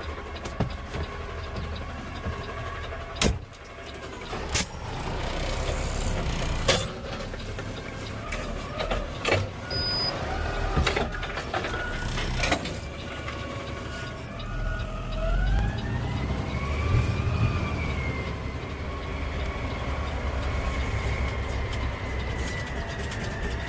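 Garbage truck running with a steady low rumble, several sharp knocks and clanks in the first half, then a whine that rises in pitch and holds as the truck gets under way.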